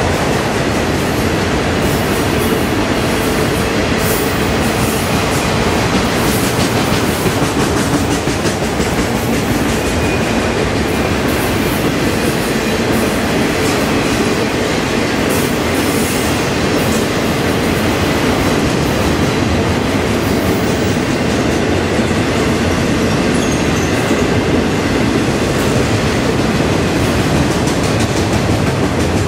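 Freight train of enclosed autorack cars rolling past at close range: a steady, loud rumble and clatter of steel wheels on the rails, with scattered rattles from the cars.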